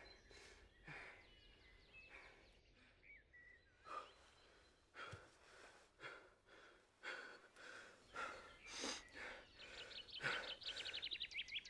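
Faint rustling and handling noises of hands working at cloth, with soft breaths, and a quick run of small ticks near the end.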